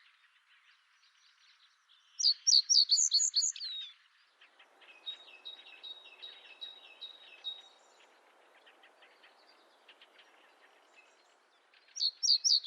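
Springtime songbirds singing. One bird gives a loud, fast phrase of repeated high notes about two seconds in and again near the end, with quieter calls and song from other birds in between.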